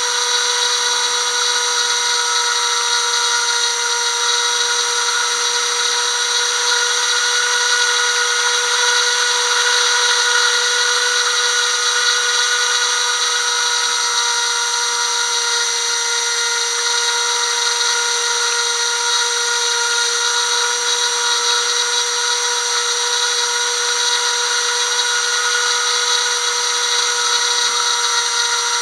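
Brushless electric motors of a small FPV craft whining steadily at a near-constant pitch.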